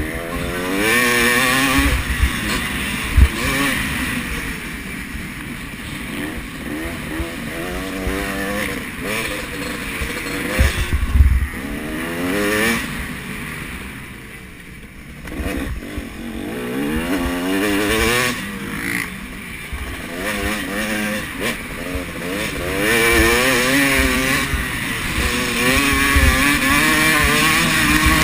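Several motocross bikes revving and shifting as they race around the track, their engine pitch repeatedly rising and falling and overlapping as they come and go. A few short low thumps near the start and about a third of the way in.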